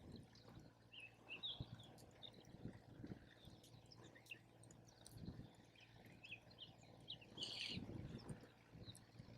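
Faint campfire with scattered small crackles and pops, and small birds chirping now and then. A brief louder rush of noise comes about three-quarters of the way through.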